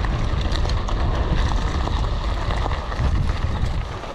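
Mountain bike ridden over a rough bush trail: wind buffets the camera microphone with a heavy rumble while the tyres and bike rattle and click over the ground. The rumble drops away near the end.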